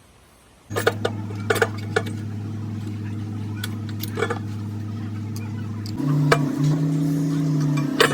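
A motor starts up suddenly and runs with a steady hum, stepping up to a higher pitch about six seconds in, with metallic clinks and clicks over it.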